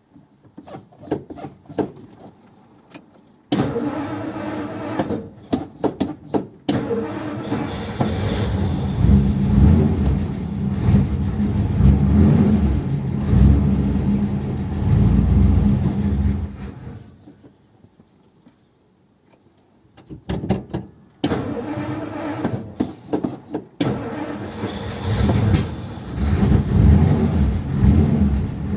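1957 Ford Thunderbird's V8 engine starting and running in a few abrupt clips, with a short quiet break about two-thirds of the way through before the engine sound returns.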